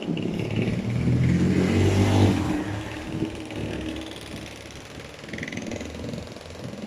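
A car driving past, its engine getting louder to a peak about two seconds in and then fading away.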